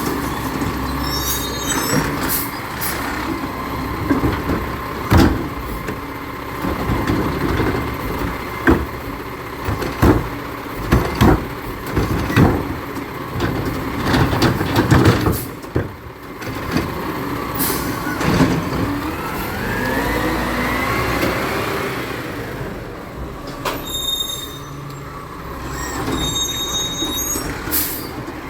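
Recycling truck at work: its engine running steadily with repeated clanks and bangs, a rising whine about twenty seconds in, and short high squeals near the end.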